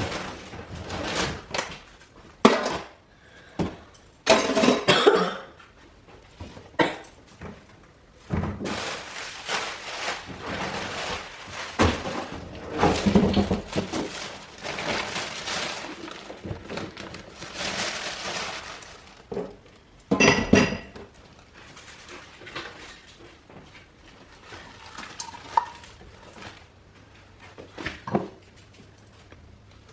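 Household items clattering and clinking as they are handled and set down, with a longer stretch of steady rustling, scrubbing-like noise in the middle.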